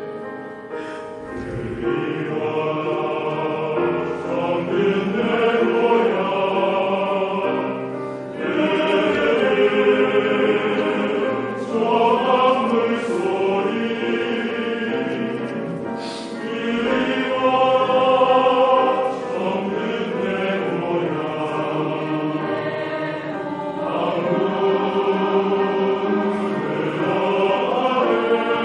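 Men's voices of a choir singing in harmony, in sustained phrases with short breaks between them.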